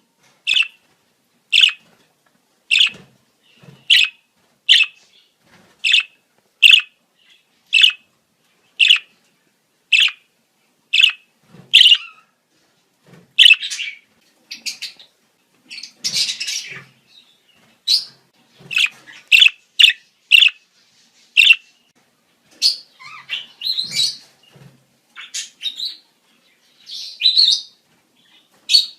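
Budgerigar breeding-season calls: short, sharp chirps about once a second, turning more irregular and varied after about twelve seconds, with a brief burst of busier chatter in the middle.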